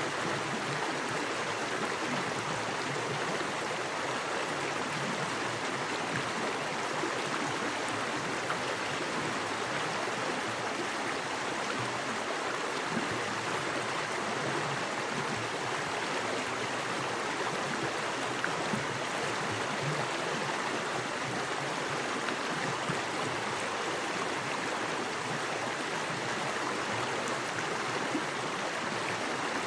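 Small forest creek running fast over rocks: a steady rushing with fine splashing and gurgling.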